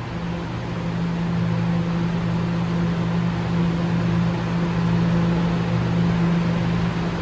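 Steady low mechanical hum of a subway train, two held tones over a wash of rushing noise, growing slightly louder.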